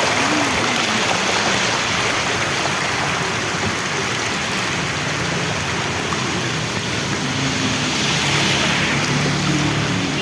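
Heavy rain pouring down, a dense, steady hiss of falling and running water.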